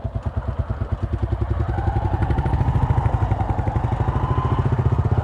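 Honda SP 125 motorcycle's single-cylinder engine running in a fast, even beat, growing a little louder after a second or two.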